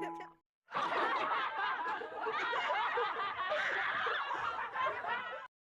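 A group of people laughing, many voices overlapping, starting after a brief pause and cutting off suddenly near the end.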